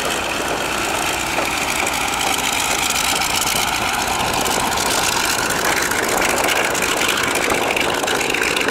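Propeller aircraft taxiing past, their piston engines running steadily at low power.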